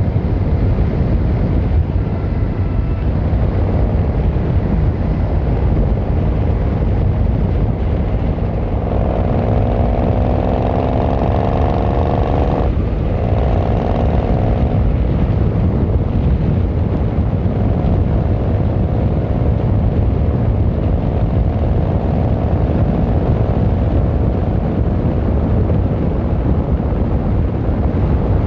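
Yamaha XVZ1300 Royal Star's V4 engine and exhaust under way, a steady low rumble. About a third of the way in the engine note climbs as it accelerates, then drops sharply near the middle at a gear change, and runs on steadier after.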